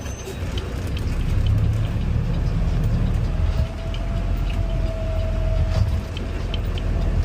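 Mack LR Electric garbage truck driving, heard from the cab: a low rumble from the road and drivetrain that builds over the first second or so, a faint steady whine for a couple of seconds in the middle, and light rattles.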